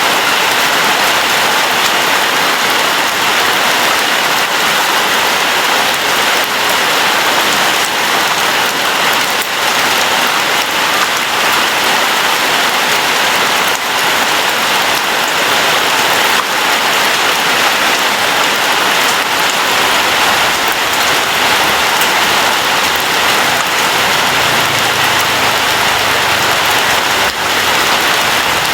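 Steady rain falling, an even hiss of drops with scattered individual drop ticks. A faint low rumble rises a little in the last few seconds.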